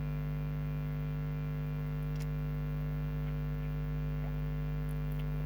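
Steady electrical mains hum, a buzz with several overtones that does not change.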